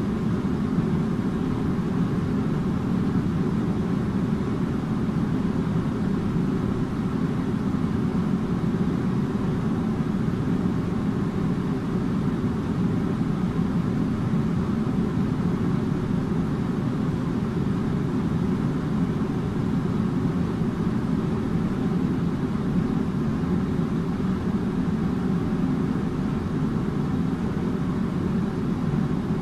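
Air conditioner running steadily: an even, unchanging low hum and whoosh of fan and airflow.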